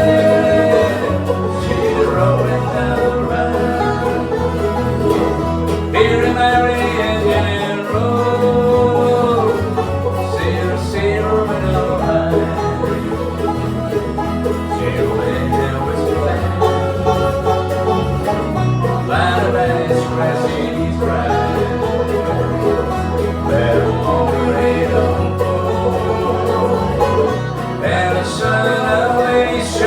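Acoustic bluegrass-style music with banjo and guitar, playing steadily with a melodic lead line over a steady bass.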